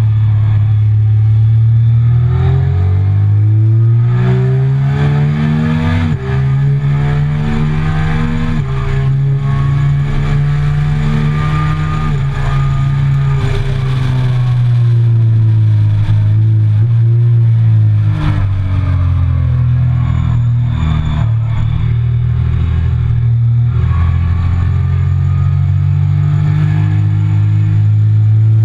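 Triumph Speed Triple 1050's three-cylinder engine at full throttle on track, its pitch rising through the gears with two sharp drops at upshifts about six and eight and a half seconds in. Midway the note falls as the bike brakes and downshifts for a corner, then rises again under acceleration, over steady wind rush.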